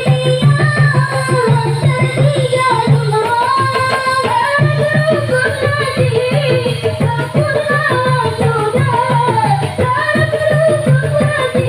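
Marawis music: a sung melody over quick, dense hand-drum beats.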